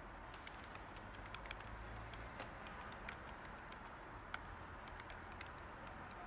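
Light typing on a computer keyboard: soft, irregular key clicks over a steady white-noise hiss.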